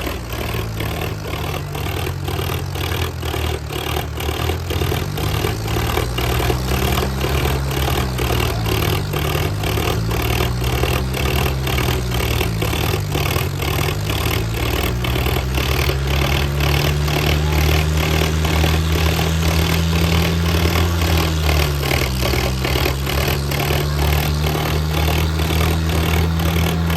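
Diesel tractor engines labouring at full pull in a tug-of-war. The revs swell and sag every few seconds and are held high for a stretch after the middle, over a fast, regular clatter.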